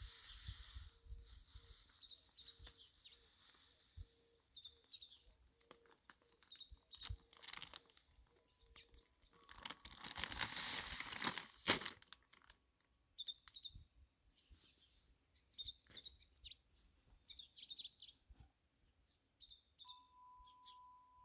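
Crinkling and rustling from handling birdseed while refilling a bird feeder, swelling into a louder rush for about two seconds near the middle, with small birds chirping throughout.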